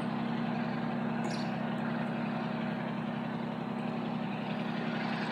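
An engine running steadily at idle: a constant hum with a noise haze above it.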